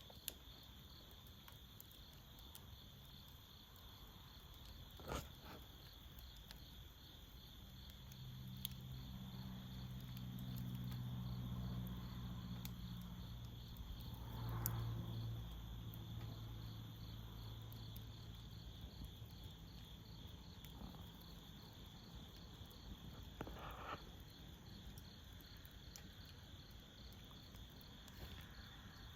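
Faint steady chirring of crickets, with a low drone that swells and fades in the middle and a few scattered soft clicks.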